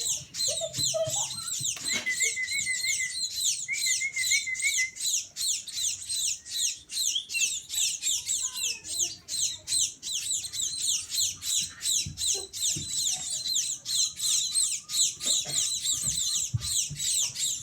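A flock of munias chirping continuously: a dense chatter of short, high, falling calls, with two brief warbling trills about two to five seconds in.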